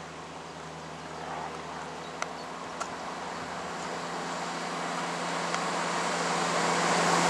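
Diesel multiple-unit passenger train approaching, its engine hum and rushing wheel noise growing steadily louder as it nears. Two sharp clicks come a little after two seconds in and again under a second later.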